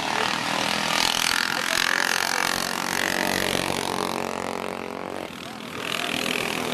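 Several minibikes' small engines running hard as the pack laps the track, the sound swelling and easing as the bikes pass, with a dip about five seconds in before it builds again.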